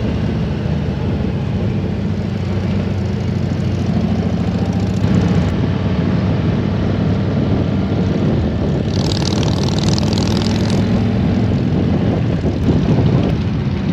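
Harley-Davidson Road Glide's V-twin engine running steadily while riding. A brief hiss comes in about nine seconds in and lasts about two seconds.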